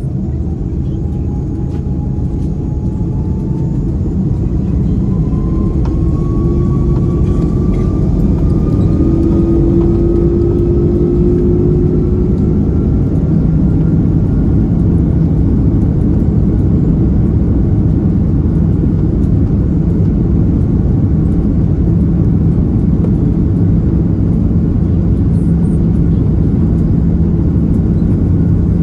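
Airbus A330-300 jet engines heard from inside the cabin at takeoff: a steady low rumble as the engines spool up, with a whine rising in pitch over the first half and the noise growing louder, then holding steady.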